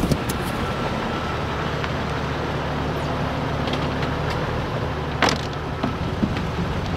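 Jeep Cherokee engine idling steadily, with a sharp click about five seconds in.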